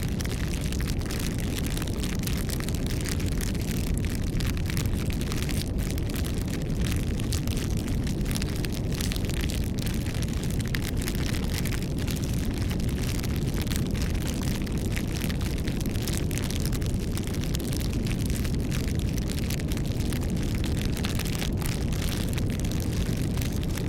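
Campfire burning: a steady low rumble of flames with many small, quick crackles and pops from the burning wood.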